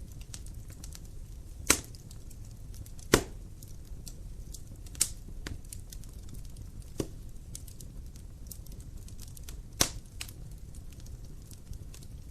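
Dry firewood burning in a fireplace: a steady low rumble of the flames with constant small crackles and five sharp, loud pops of the wood spaced a couple of seconds apart.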